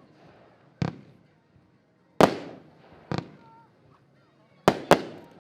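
Xplode Daredevil fanned firework battery firing, five sharp bangs at uneven intervals with the last two close together, each echoing away. Faint voices are heard between them.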